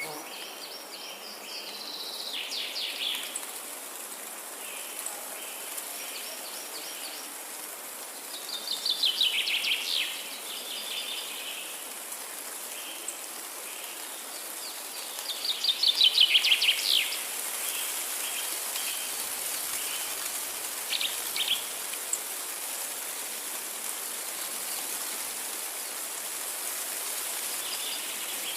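Forest birdsong: a songbird repeatedly sings fast trills of quick notes, loudest about 9 and 16 seconds in, with shorter calls between, over a steady background hiss.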